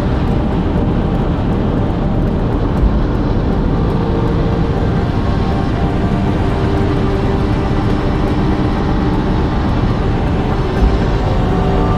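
Aprilia RS 660 sport motorcycle's parallel-twin engine running at a steady cruise, heard through heavy wind rush on the helmet or bike camera. Two brief low thumps come about three seconds in and near the end.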